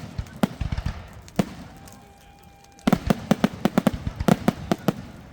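Fireworks going off: a couple of separate sharp bangs in the first second and a half, then from about three seconds in a rapid barrage of bangs, several a second.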